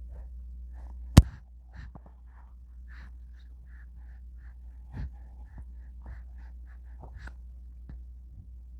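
Newborn baby's soft breaths, small gasps and squeaky little sounds, many short ones in quick succession, with one sharp click about a second in over a steady low hum.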